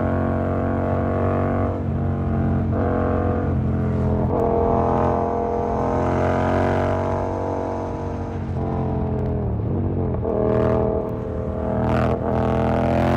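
Yamaha MT-07's parallel-twin engine through an SC Project aftermarket exhaust, running at cruising speed on the road. Its pitch dips briefly a few times, falls as the bike slows about three-quarters of the way in, then rises again near the end.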